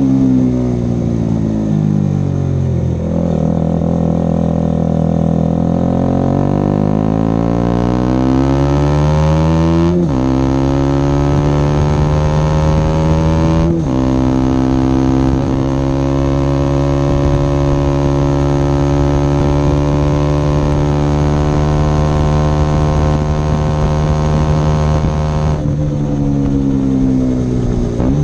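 KTM Duke 125 single-cylinder four-stroke engine, loud through an Akrapovic silencer with no dB killer and a LeoVince decat pipe, under way: the note falls off throttle, picks up and climbs, drops sharply at two upshifts about ten and fourteen seconds in, holds a steady pitch, then falls away again near the end.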